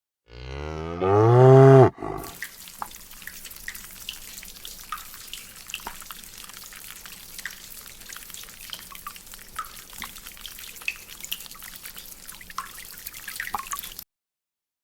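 A cow moos once, long and loud, ending about two seconds in. Then comes a faint patter of small water drips and ticks, which cuts off shortly before the end.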